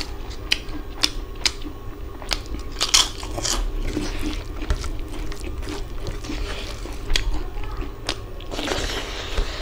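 Crisp papad being bitten and crunched, with chewing between bites: a string of sharp crackling snaps, loudest about three seconds in.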